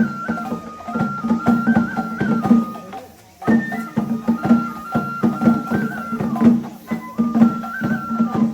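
Japanese festival hayashi music: a high bamboo flute plays a melody of held notes over steady drumming. The music breaks off for a moment about three seconds in, then starts again.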